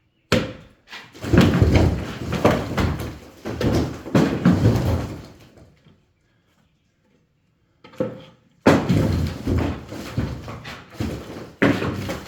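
A brick wall being knocked down: repeated heavy knocks with bricks and rubble clattering down. It comes in two bouts, with a short silent gap between them about six seconds in.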